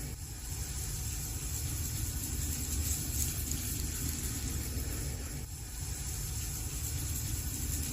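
Wood fire burning in a fireplace: a steady low rumble with a hiss over it, dipping briefly about five and a half seconds in.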